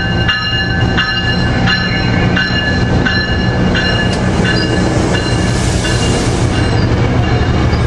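Metrolink commuter train pulling out, its diesel locomotive running with a steady low drone under rail noise. A bell rings about one and a half strokes a second and fades away about halfway through.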